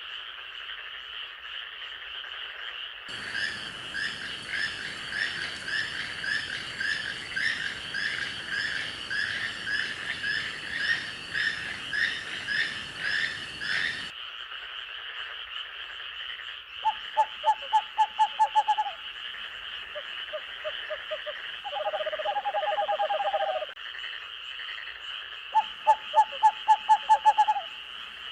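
Night-time forest chorus of frogs and insects: a steady high trilling throughout, with a denser layer of rhythmic croaking calls over a hiss that starts about three seconds in and cuts off suddenly around fourteen seconds. Twice, a louder, lower series of about ten quick pulsed notes lasting about two seconds stands out above the chorus.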